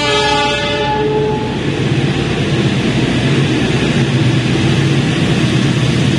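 Diesel-electric locomotive arriving: a brief horn blast at the start, then its engine and the wheels on the rails running with a steady low hum that grows a little louder as the train draws alongside.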